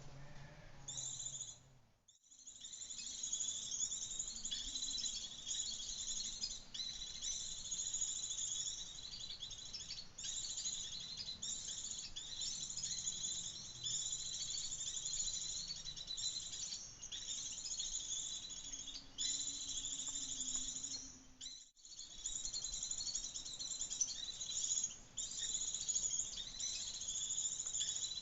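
Sunbirds chirping and twittering rapidly, a dense, continuous high-pitched chatter that breaks off briefly about two seconds in and again a little after twenty seconds.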